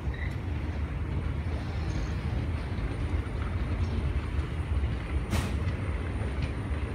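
Indian Railways express train's blue passenger coaches rolling past at speed: a steady low rumble of wheels on rail, with one sharp click about five seconds in.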